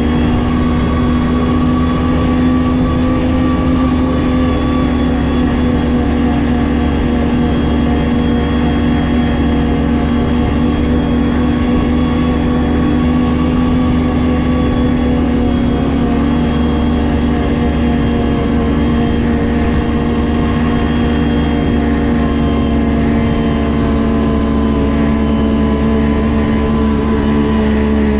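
Ski-Doo GSX 600 HO snowmobile's two-stroke twin engine running under way at a steady high speed, its pitch holding almost constant throughout.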